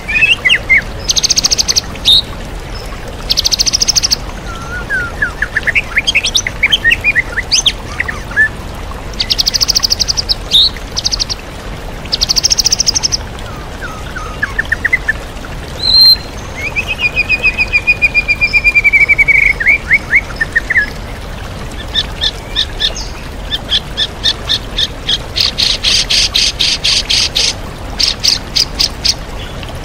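White-rumped shama (murai batu) singing a varied mimicking song of whistled notes, fast trills and loud rapid rattling chatters, with the steady rush of a waterfall underneath.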